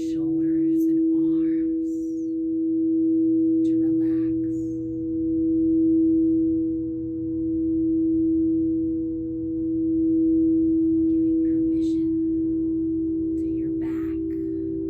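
A singing bowl sounding a sustained steady tone whose loudness swells and fades about every two seconds. About twelve seconds in, a second, slightly higher tone joins it.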